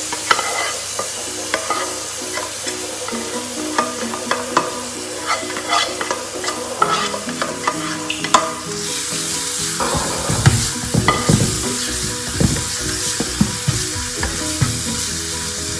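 Shallots and garlic sizzling in hot oil, with the scrape and clack of a spatula against the pans as they are scraped from a small frying pan into a larger one and stirred. The sizzle gets louder a little past halfway, once they are stirred in the larger pan.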